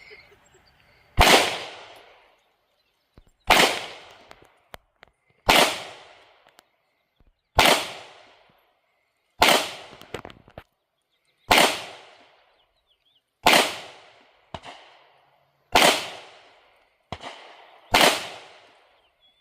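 Canik Prime 9mm-class pistol fired in slow, aimed single shots: nine sharp reports about two seconds apart, each trailing off briefly.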